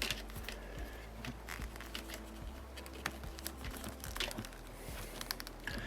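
Faint handling of small plastic figure parts: scattered light clicks and rustles as a plastic lightsaber hilt is worked into an action figure's hand.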